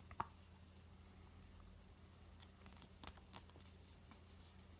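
Near silence with a steady low hum and a few faint clicks and taps of paper and packaging being handled, the sharpest one a fraction of a second in.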